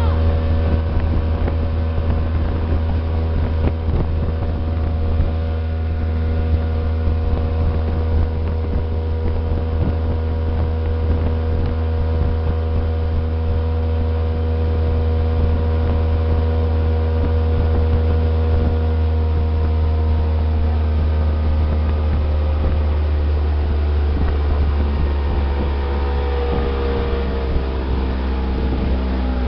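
Motorboat engine running steadily under way, its pitch easing down a little near the end.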